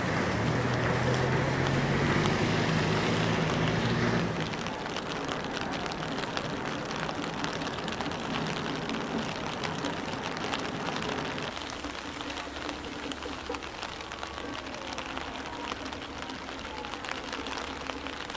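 Rain pattering steadily over a low droning hum. The hum is louder for the first four seconds, then drops suddenly.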